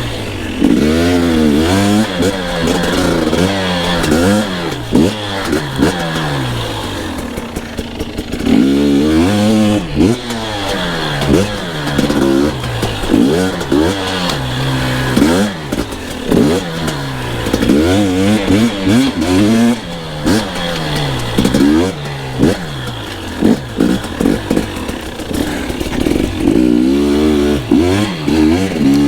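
Two-stroke dirt bike engine revving up and down over and over as it is ridden. Its pitch climbs and drops every second or two with each burst of throttle.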